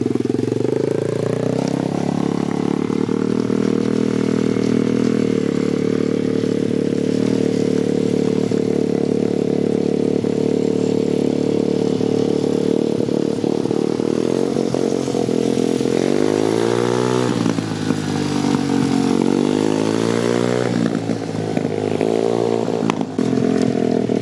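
Dirt bike engine running steadily, then revving up and back down twice in quick succession about two-thirds of the way through.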